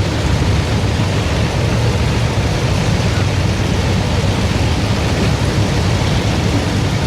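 Modified pulling tractor's engine running hard at full throttle under load, a loud, steady sound with no breaks.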